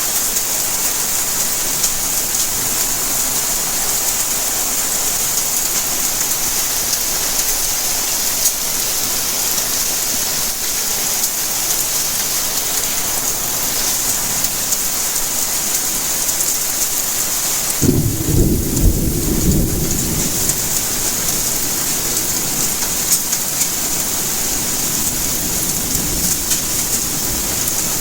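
Steady rainfall hiss, with a sudden clap of thunder about two-thirds of the way through that rumbles off over several seconds.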